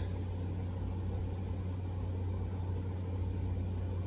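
Room air conditioner running: a steady low hum under an even fan rush.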